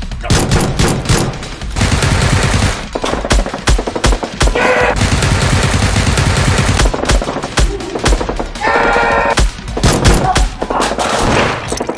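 Rapid automatic gunfire sound effects, long bursts of machine-gun fire, with music underneath.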